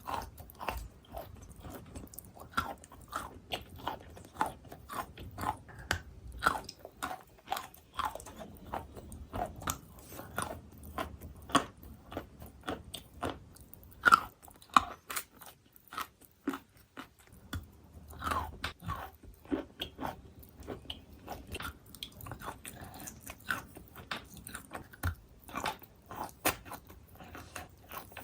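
Wet chalk crunched up close, biting and chewing, with dense irregular crackling several times a second. The loudest crunch comes about halfway through.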